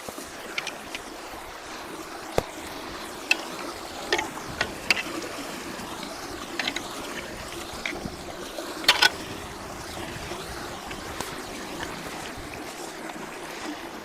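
Steady rush of floodwater flowing through a culvert as it is cleared of debris. Scattered sharp knocks and clicks break through, the loudest a double knock about nine seconds in.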